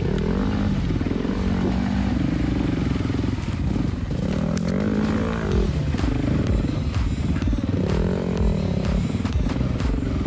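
Dirt bike engine rising and falling in pitch over and over as the rider works the throttle on the trail. Sharp knocks and clatter come in from about three and a half seconds in.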